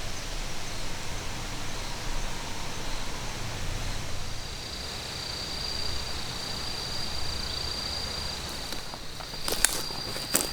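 Outdoor woodland ambience: low wind rumble and rustling, joined about four seconds in by a steady high-pitched tone, with a few sharp snaps or clicks near the end.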